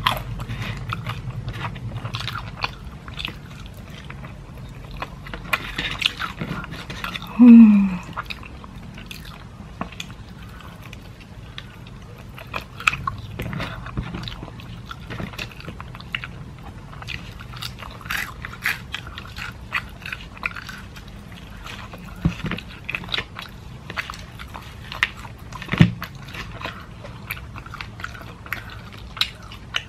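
Close-miked chewing and biting of crispy salted-egg fried chicken, with scattered light crunches of the coating and the sticky sounds of fingers pulling the meat apart. About seven and a half seconds in comes a brief, loud hum from the eater, falling in pitch.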